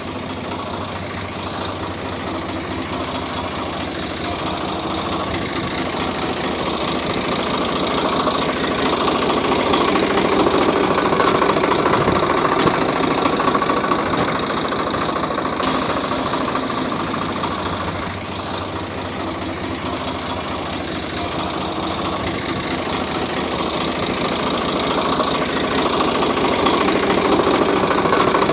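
Mini tractor's small motor running steadily with a fast, rattly hum, growing louder twice.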